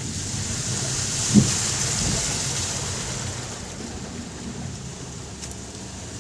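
Car on a wet road in the rain: a steady low rumble with the hiss of tyres and rain, which swells and then eases. One short thump comes about a second and a half in.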